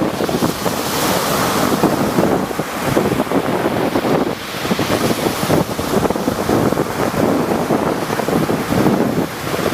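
Rough sea waves breaking and washing in repeated surges, with wind buffeting the microphone.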